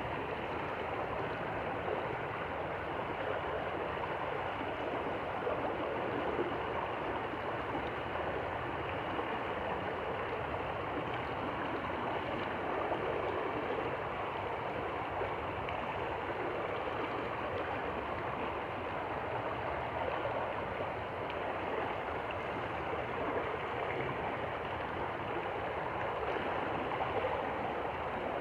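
Stream water flowing and gurgling steadily, an even rushing noise.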